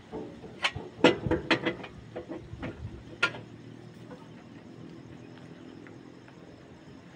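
Several sharp clicks and knocks in the first three seconds or so, typical of tools and parts being handled during a disc brake pad change, then a faint steady low hum.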